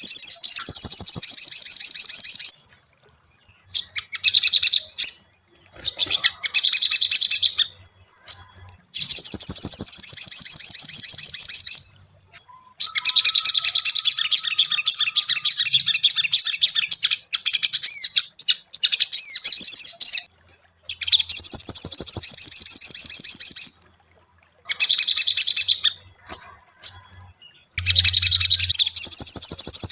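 Little spiderhunter (sogok ontong) singing: bouts of rapid, high chirping notes, each lasting one to three seconds, repeated with short pauses.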